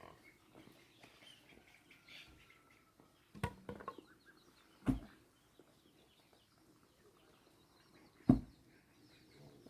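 Three separate sharp knocks, about a second and a half apart and then a longer gap, the last one the loudest, over faint bird chirping.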